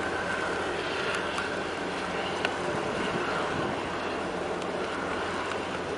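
Steady low engine drone mixed with wind noise on the microphone, with a few faint ticks.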